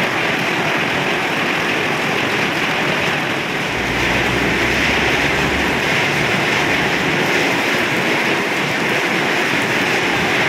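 Steady hiss of heavy rain, with a low rumble added for about two seconds, roughly four seconds in.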